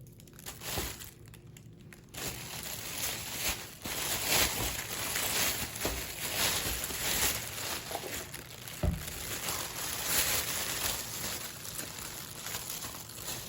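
Rustling and crinkling handling noise, a dense crackle of small sharp sounds starting about two seconds in.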